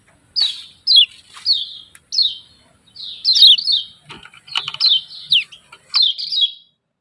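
Kecial kuning, a small yellow white-eye, giving a string of short, sharp, falling "ciak ciak" chirps, some in quick doubles and triples.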